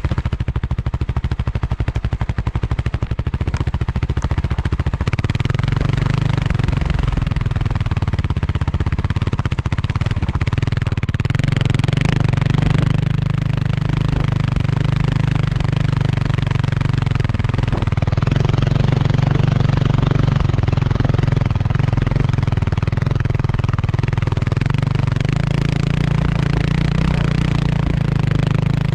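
Kawasaki KLX300R dirt bike's single-cylinder four-stroke engine chugging in rapid, distinct firing pulses at low revs. About five seconds in it picks up and then runs steadily at a higher, fairly even engine speed with small rises and falls.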